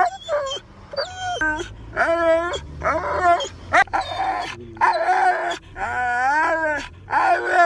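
Husky 'talking' back: a run of about eight whining, howl-like vocal calls in quick succession, each wavering up and down in pitch. These are the dog's protests at being made to put its harness on.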